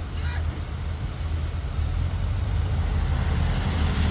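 Heavy diesel earthmoving machinery running with a steady low drone, getting slightly louder about halfway through.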